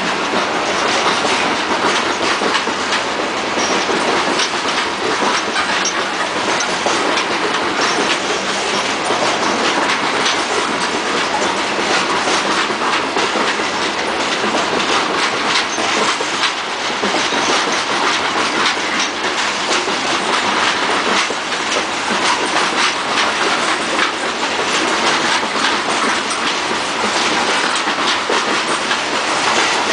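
Loaded CSX freight cars, open-top hoppers, rolling steadily past at close range, their steel wheels clacking over rail joints in an irregular run of clicks.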